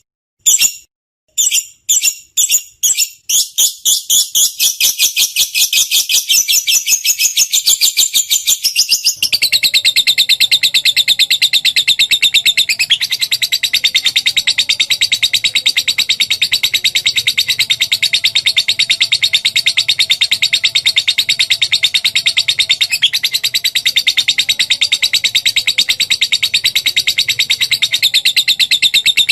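Lovebird chattering: separate sharp, high chirps that speed up over the first few seconds into a long, fast, unbroken trill, the long 'ngekek' call.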